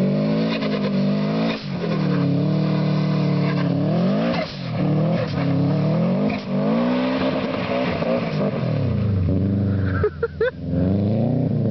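A Subaru's flat-four engine revving up and down over and over as the all-wheel-drive car slides through donuts on snow. Its pitch rises and falls every second or two, and it briefly drops away about ten seconds in.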